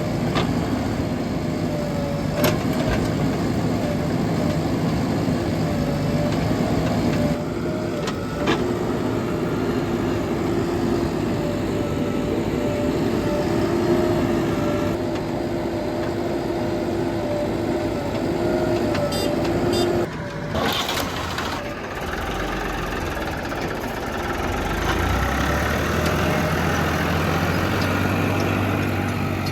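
Heavy diesel engines of earthmoving machinery and trucks running steadily, with a steady whine over the engine and a couple of sharp knocks. About two-thirds through, the whine stops and a deeper engine hum takes over.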